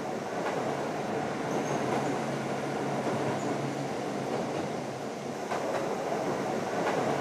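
Single-car diesel railcar running along the line: a steady engine hum and rumble of the wheels, with a few faint clicks from the rail joints.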